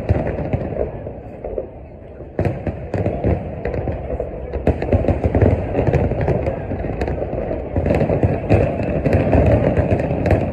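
Aerial fireworks shells bursting in a dense run of booms and crackle over a continuous rumble. There is a short lull about a second in, and the bursts pick up again sharply about two and a half seconds in.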